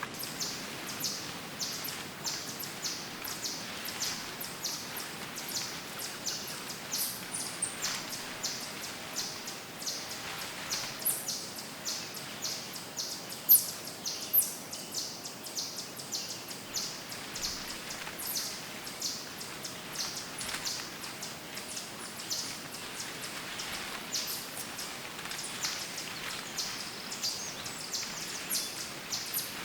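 Small songbirds chirping overhead in quick, high-pitched notes, several a second, over a steady hiss of woodland ambience, with one sharp click about halfway through.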